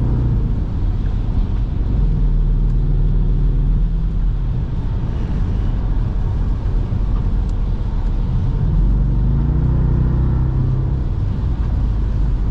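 Muffler-deleted 6.4-litre V8 of a Jeep Grand Cherokee SRT, heard from inside the cabin while driving. It runs with a steady low drone, and the engine note climbs briefly about nine to ten seconds in.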